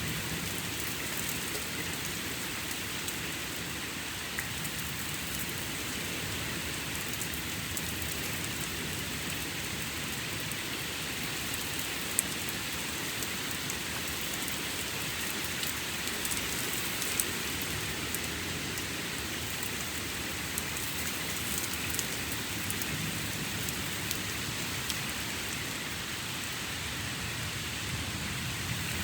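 Steady heavy rain falling and pattering on surfaces during a thunderstorm, with a few sharp ticks of close drops, the loudest about twelve and seventeen seconds in.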